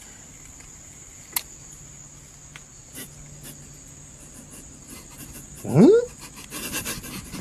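A faint steady high-pitched whine, then about six seconds in a short, loud animal call that rises sharply in pitch.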